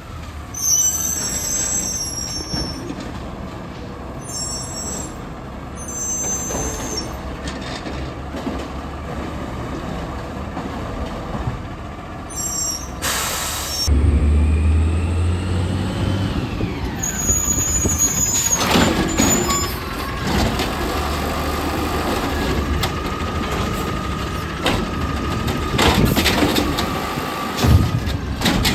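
Garbage truck working: its air brakes let off several sharp hisses, one very loud about halfway through. Its diesel engine runs louder after that, with a whine that falls in pitch.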